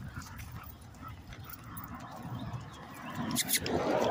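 Dogs moving about on a walk, with a rustling noise building up near the end.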